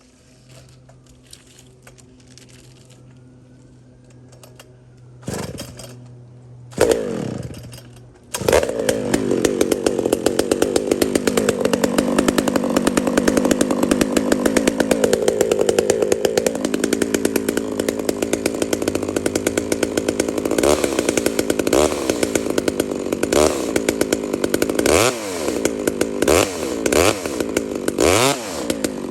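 Two-stroke chainsaw pull-started: short bursts of firing, then it catches about eight seconds in and runs at full throttle. The engine note dips and recovers several times as it works through the wood, and the freshly hand-filed chain is cutting.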